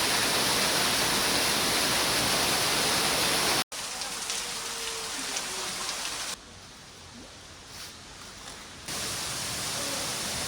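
Steady noise of a waterfall. It cuts out suddenly about a third of the way in and comes back quieter, drops lower still for a couple of seconds past the middle, then rises again near the end.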